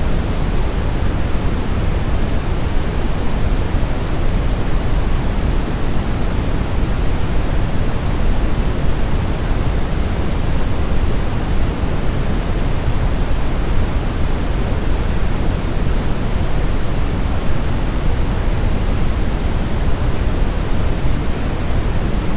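Steady synthetic brown noise: an even, deep rushing hiss weighted toward the low end, unchanging throughout.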